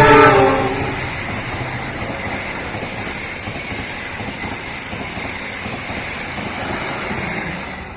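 A train horn sounding and fading out about a second in, followed by the steady rushing noise of a train running past.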